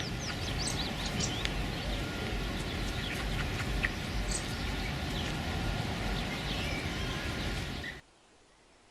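Many short bird chirps and whistles over a steady rushing background noise, cutting off abruptly near the end.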